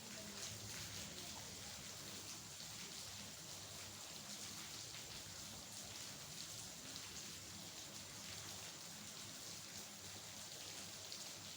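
Steady rain falling: an even hiss with individual drops striking here and there.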